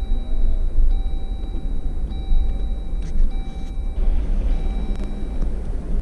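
Jeep driving, a steady low rumble of engine and road noise, with a faint thin steady tone that breaks off briefly about once a second.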